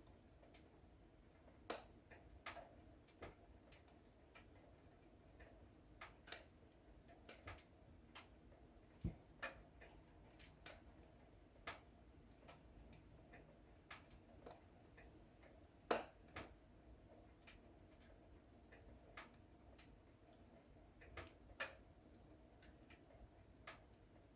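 Wood fire in a fireplace crackling: quiet, irregular sharp pops and snaps over a faint steady hiss, with the loudest pop about two-thirds of the way through.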